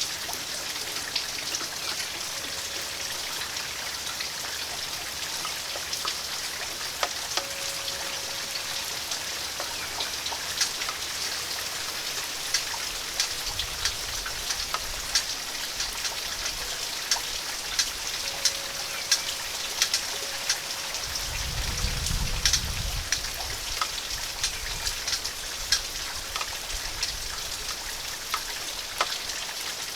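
Steady summer rain falling, with many separate drops striking hard surfaces as sharp taps. A brief low rumble swells and fades about two-thirds of the way through.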